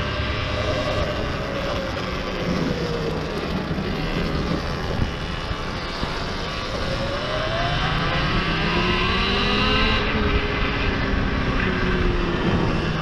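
Electric enduro bike on the move: the motor's whine falls and rises in pitch with speed, over steady wind and tyre rumble.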